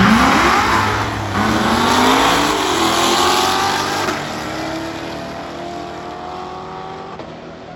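Drag-racing car accelerating hard down the strip, engine pitch climbing and dropping back at gear changes about a second in, near three seconds and around four seconds, fading as it pulls away.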